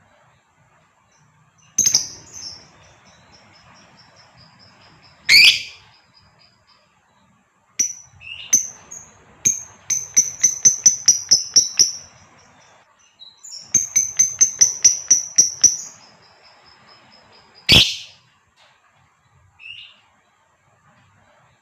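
Female lovebird calling: a few sharp, shrill single chirps and two rapid chattering runs of about six chirps a second, the 'ngekek' chatter used to excite male lovebirds.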